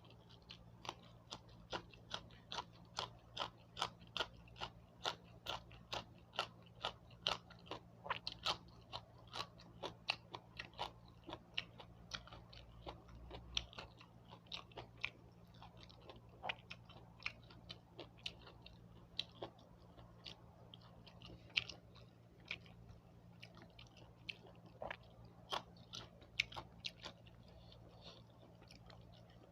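A person chewing crunchy food close to the microphone: sharp crunching clicks about two or three a second, thinning out after the middle into scattered crunches.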